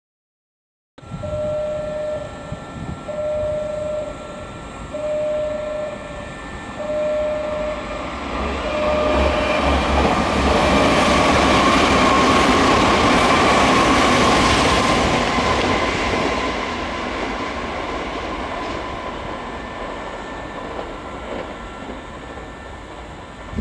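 A Nankai 50000-series Rapi:t electric train runs through the station without stopping. The rush of its wheels and motors builds, peaks about halfway with a slightly falling whine, then fades slowly. Over the first part a repeating tone sounds about once every two seconds.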